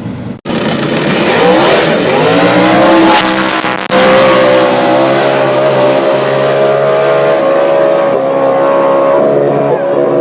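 Race cars accelerating hard at full throttle. The engine note climbs for about three seconds, breaks sharply about four seconds in at a gear change, then holds at high revs.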